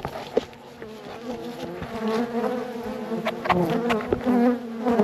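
Honeybees buzzing in a wavering drone around an opened hive, with a few sharp clicks. The bees are agitated and defensive, described as a little testy.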